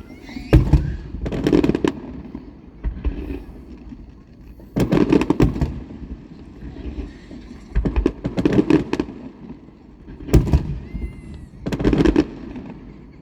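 Aerial fireworks bursting in a series of loud booms, each followed by a rumbling decay, coming in clusters a second or a few seconds apart. A faint wavering whistle sounds briefly near the end.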